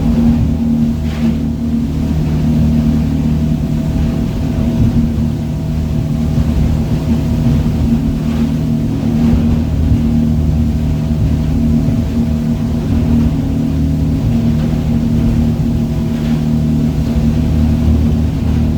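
Charter boat's engine running steadily under way, a loud, even drone.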